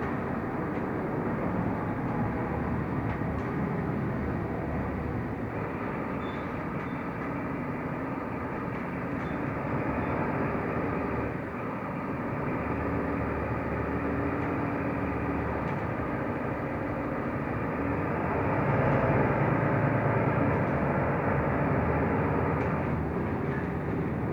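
Mercedes-Benz Türk O345 Conecto LF city bus under way, heard from inside the cabin: a steady mix of engine, road and body noise that gets louder about three-quarters through.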